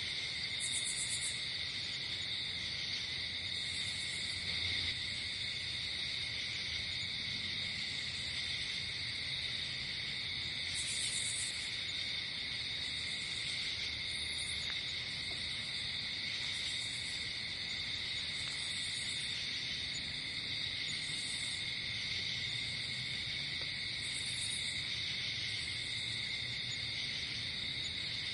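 Night-time insect chorus, typical of crickets: a steady, unbroken high trill, with a higher, brief buzzing chirp repeating every two to three seconds.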